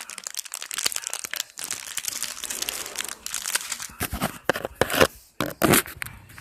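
Crinkling and tearing of packaging being worked open with a knife, followed by a few sharp knocks in the last couple of seconds.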